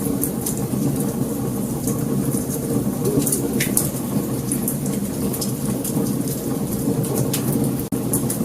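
Wood fire crackling: a steady low roar of burning with many quick, sharp pops and snaps scattered through it. The sound cuts out for an instant near the end.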